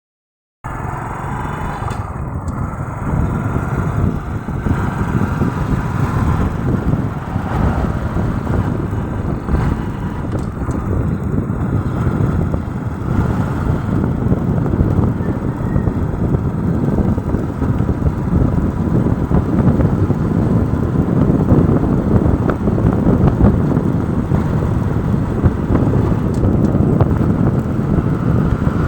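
Steady rumble of a moving motorcycle and road traffic, with wind buffeting the microphone.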